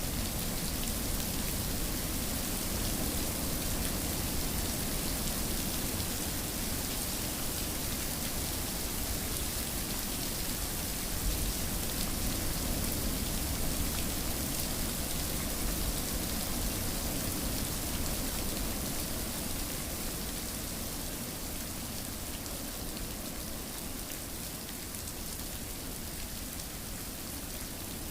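Steady rain falling, a continuous even hiss of drops on surfaces, easing slightly toward the end.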